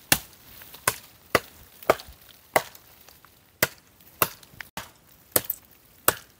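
Dry deadwood being chopped by hand with a blade: about nine sharp chopping strokes at an uneven pace, a little under one a second.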